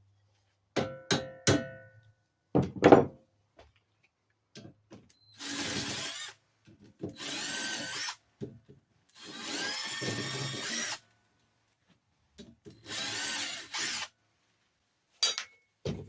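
A handheld power drill run in four short bursts of about a second each, its motor pitch rising in each burst, backing a fork bolt out of an old minibike's front suspension. Before the bursts come a few ringing metal clanks of tools on the fork.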